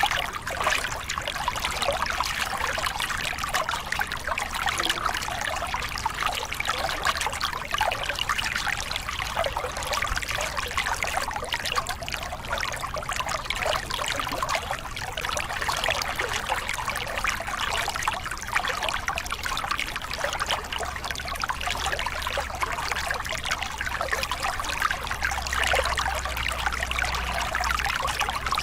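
Small river cascade: water pouring and splashing over rocks in a steady, unbroken rush.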